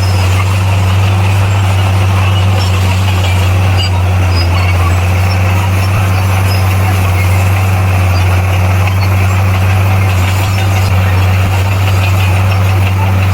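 Heavy diesel engine of earthmoving equipment, such as a bulldozer, running steadily with a deep, constant hum.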